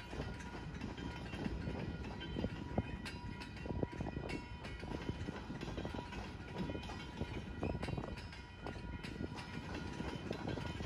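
Freight train of empty centerbeam flatcars rolling past at a level crossing: a steady low rumble with irregular wheel clicks and clanks.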